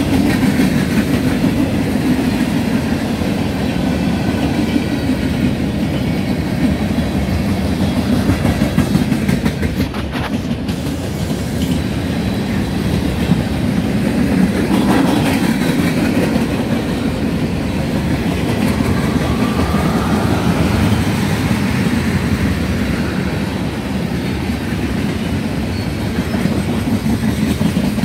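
Freight train cars rolling past at close range, a mix of boxcars, covered hoppers and tank cars: a steady rumble of steel wheels on rail with a continuous clickety-clack over the rail joints.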